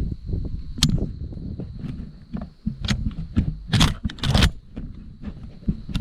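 Footsteps and the rustle and jostle of clothing and gear as someone walks through a field, with a few sharp clicks and rattles, the loudest a little under four seconds in and about half a second later.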